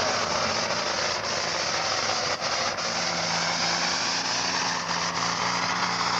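International 1066 farm tractor's turbocharged diesel running flat out under load while pulling a weight-transfer sled, a loud, steady engine note with a hard, hissing top end.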